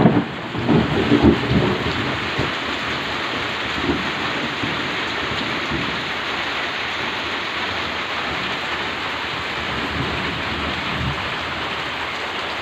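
Heavy rain falling steadily, with some low rumbling in the first couple of seconds.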